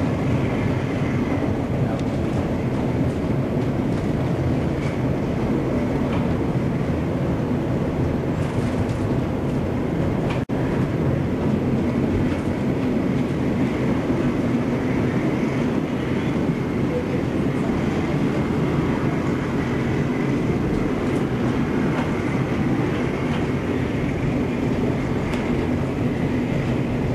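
Steady rumble and rattle of a narrow-gauge passenger train under way, heard from inside one of its coaches. A momentary dropout breaks the sound about ten seconds in.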